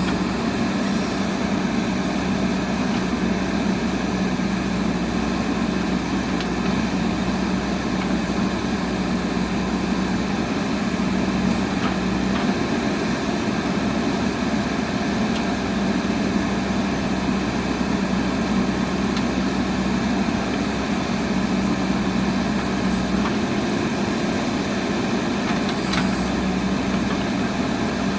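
Diesel engine of a JCB backhoe loader running at a steady speed.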